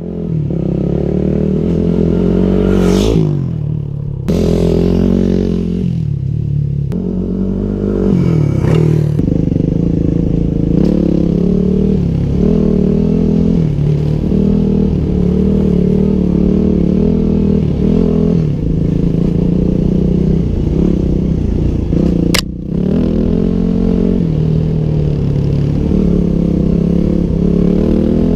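2009 Yamaha WR250X's single-cylinder four-stroke engine being ridden on a dirt trail, revving up and dropping back every second or two as the throttle is worked. A single sharp knock comes about 22 seconds in.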